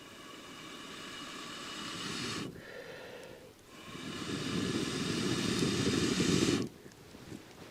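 Two long, steady blows of breath onto a wood fire to revive it for heating water, each swelling in strength for about three seconds and stopping sharply, with a short pause for breath between them.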